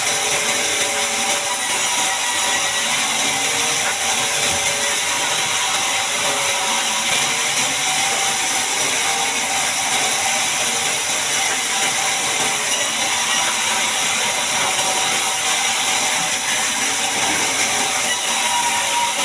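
Sawmill bandsaw running steadily through a large mahogany log: an even, unbroken hiss of the blade in the wood with a faint steady whine underneath.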